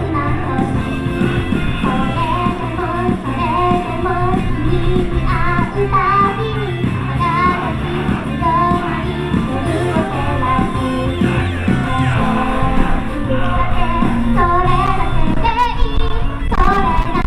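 Live female pop vocal singing a melody over loud rock-style pop music played through the PA.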